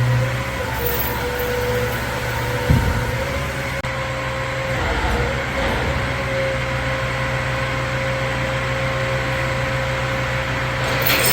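Rollback tow truck running with its bed hydraulics working: a steady engine hum under a steady whine. There is a single clunk about two and a half seconds in, and it grows louder and rougher near the end.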